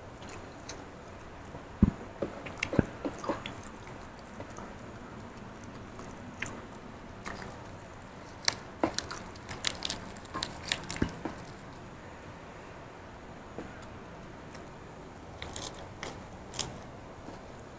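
A person eating close to a clip-on microphone, biting and chewing crunchy raw vegetables and rice: wet clicks, smacks and crunches in scattered clusters, with quiet gaps of a few seconds between them.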